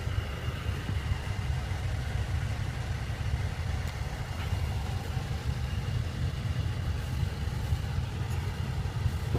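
BMW 535i's engine idling steadily, heard from inside the cabin as a low rumble with a faint high whine over it.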